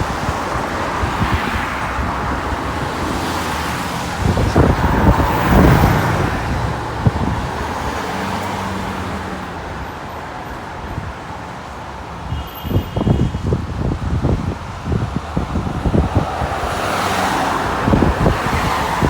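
Road traffic going by: vehicles pass about four to six seconds in and again near the end, with a low engine sound in between. Wind buffets the microphone in gusts.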